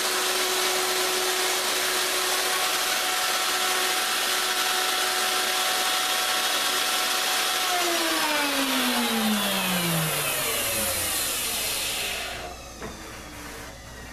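Router with a 1/4 inch bit running at full speed while cutting a pass along the curved edge of a wooden table top. About eight seconds in it is switched off, and its whine falls steadily in pitch as the motor spins down, fading out about twelve seconds in.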